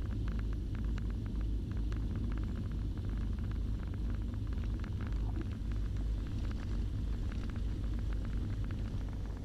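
Steady low rumble of the Beechcraft Baron B55's engines running at idle after landing, with faint quick ticks over it.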